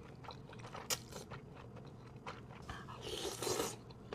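Close-miked eating sounds: faint chewing with small wet clicks and crunches, a sharper click about a second in and a short breathy noise near the end.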